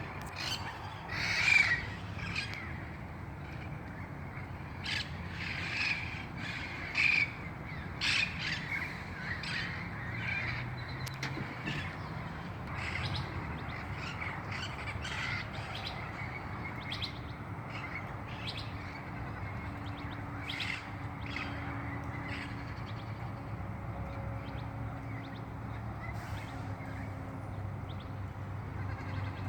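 Red-crowned Amazon parrots calling, a flurry of loud squawks in the first ten seconds, the loudest about a second and a half in, then fewer, fainter calls.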